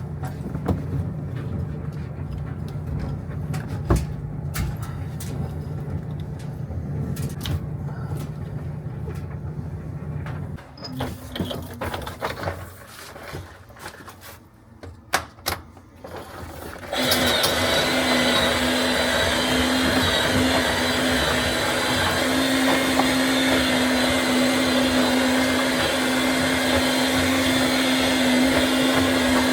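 A steady low hum with scattered clicks. Then, after a quieter stretch with a few knocks, a small motor starts suddenly about seventeen seconds in and runs steadily with a constant whine.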